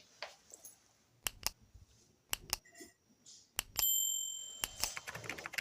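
Steel clipper blades clicking against hard surfaces in pairs of sharp knocks. Near the end of the second third, one blade gives a bright metallic ring that fades over about a second. Toward the end comes a quick run of small scraping clicks.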